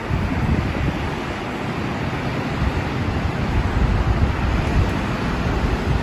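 Heavy rain and strong wind, a dense steady hiss with wind buffeting the microphone in low, gusty rumbles.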